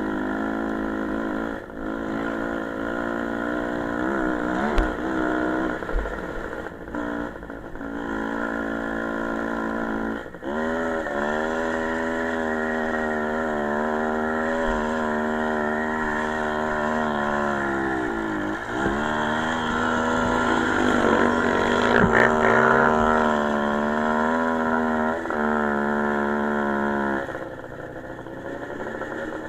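Small motorcycle engine running through a ride. Its pitch falls and climbs again about ten seconds in and again a little before twenty seconds, as the throttle is closed and reopened. It is loudest just past twenty seconds and quieter near the end.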